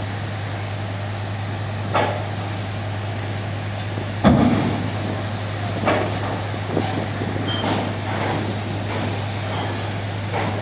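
Car ferry at the quay with a steady low engine hum, broken by several sharp metallic clanks and knocks, the loudest about four seconds in.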